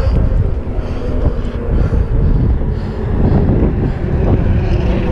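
Wind buffeting the microphone: a heavy, fluctuating low rumble.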